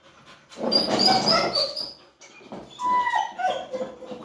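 Pit bull puppies whining and yelping in two high-pitched bouts, the second ending in a falling whine.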